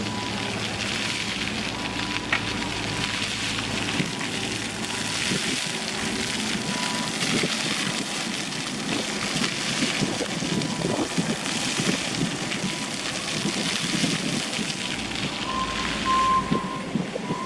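Outdoor street ambience: a steady wash of wind and traffic noise. A thin, steady high whine runs through it and gets louder for a moment near the end.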